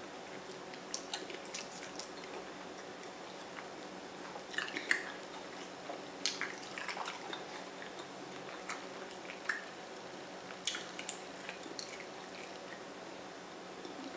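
Quiet eating sounds: scattered short wet smacks and clicks of chewing and fingers working at seafood-boil food in sauce, in small clusters over a faint steady hum.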